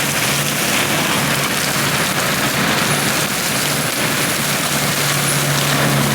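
Tracked skid steer's diesel engine running hard with its mulcher head spinning, grinding brush and small trees into wood chips. It is a steady engine hum under a loud, dense hiss of shredding wood.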